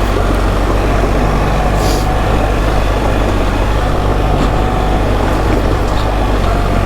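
BMW R 1300 GS boxer-twin engine running steadily as the motorcycle is ridden over a rocky track, with wind and tyre noise; a brief click about two seconds in.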